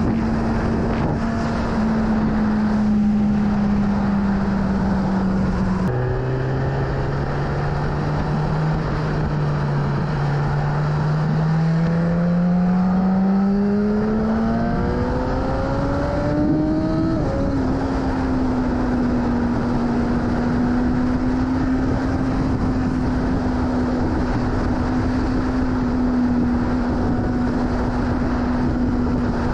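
BMW S1000RR inline-four engine under way over wind and road noise. It holds a steady pitch, drops sharply about six seconds in on an upshift, then climbs in a long rise in pitch as the bike accelerates. About seventeen seconds in it shifts up again and settles into a steady cruise.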